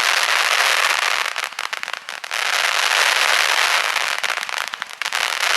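Fireworks crackling overhead: a dense, continuous fizz of many tiny pops with no deep booms. It dips briefly about two seconds in and again near the end, then picks back up.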